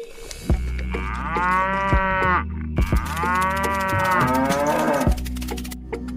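Cow mooing twice, two long calls of about one and a half to two seconds each, over a steady low hum with a few clicks.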